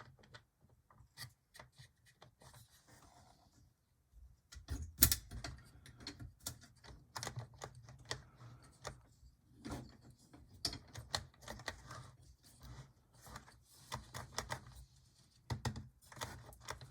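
Irregular light clicks and taps of a small plastic HO-scale model locomotive being handled and worked on the track, over a low steady hum.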